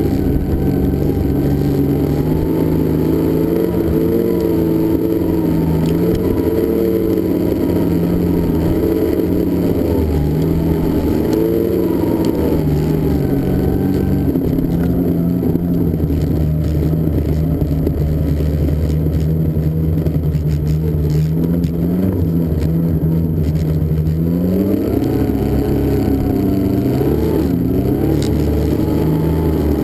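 Snowmobile engine running steadily under way, its pitch rising twice near the end as the revs climb.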